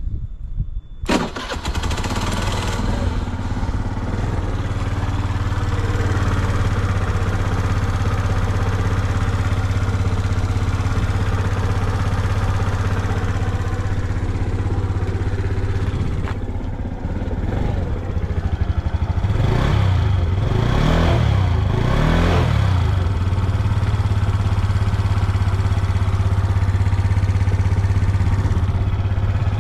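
Suzuki Let's 5G fuel-injected scooter's small single-cylinder engine starting about a second in and then idling steadily, blipped up three times in quick succession a little past the middle before settling back to idle. It runs without any abnormal noise.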